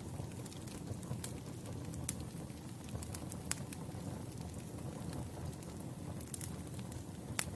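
Wood campfire burning, a steady low rustle of flames with scattered sharp crackles and pops from the burning logs, the loudest pop near the end.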